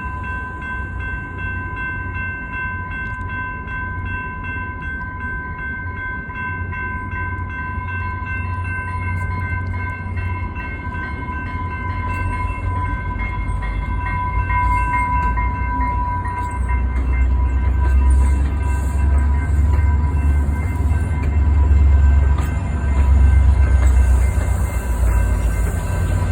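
A train at the station: a deep rumble that grows louder about two-thirds of the way in, under a steady high-pitched whine.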